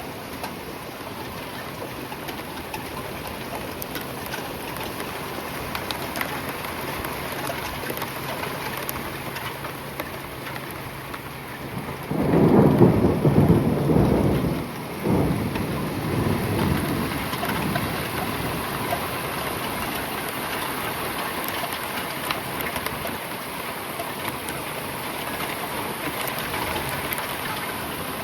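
Rain falling steadily, with a rumble of thunder about twelve seconds in that lasts several seconds, dips briefly, then rolls on more quietly.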